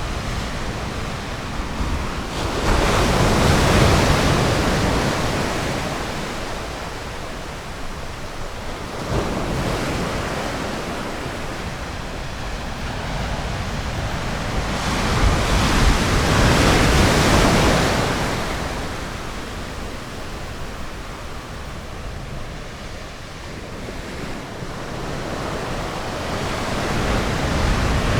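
Ocean surf: waves breaking and washing up the beach in slow surges, loudest about three to four seconds in and again around sixteen to eighteen seconds, with a smaller surge near nine seconds and another building near the end.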